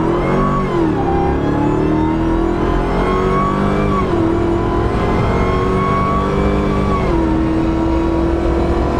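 Supercharged 6.2-litre Hellcat Hemi V8 in a Jeep Gladiator accelerating hard, heard from the cab: the engine note climbs and drops back at upshifts about a second, four seconds and seven seconds in, then holds a steady note near the end.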